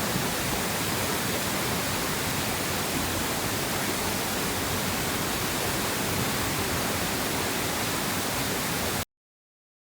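Steady rushing of a waterfall, cutting off abruptly about nine seconds in.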